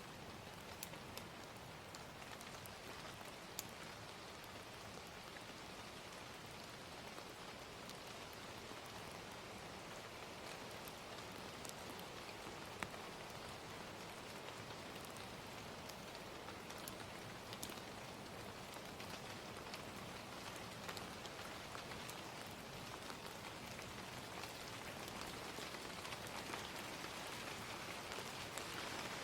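Gentle steady rain with scattered sharp crackles and pops from a wood fire. Two louder pops come a few seconds in and about midway, and the rain swells a little toward the end.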